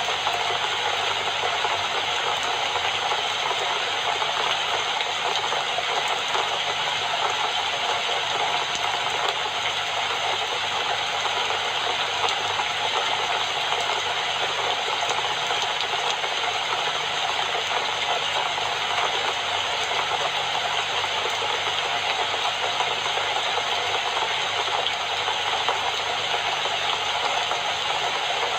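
Steady rain falling, an even, unbroken rush of drops.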